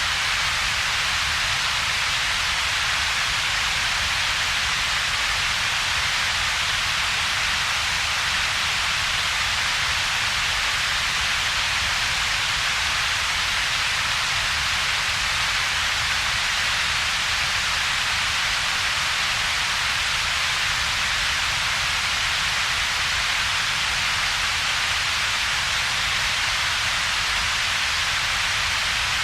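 Steady synthetic double-peaked noise: an even hiss centred around a few kilohertz layered over a low rumble, with a hollow in between, constant in level with no change.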